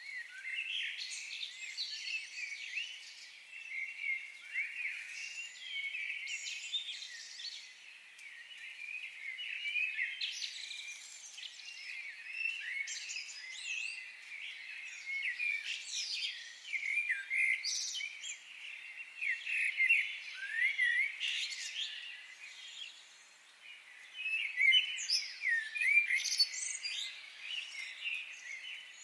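Several songbirds singing and chirping together in a steady chorus of quick high notes and short glides, with a few louder phrases in the second half.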